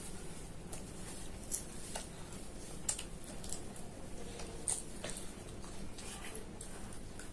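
Close-up chewing of mutton liver and roti: scattered short, wet mouth clicks and smacks over a low steady hum.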